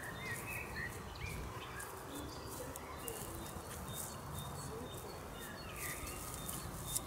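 Small wild birds chirping now and then in the background, short scattered calls over a faint steady outdoor hiss.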